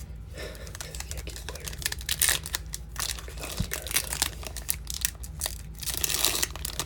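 Foil trading-card pack wrapper crinkling and tearing as it is opened, in quick irregular rustles, over a steady low hum.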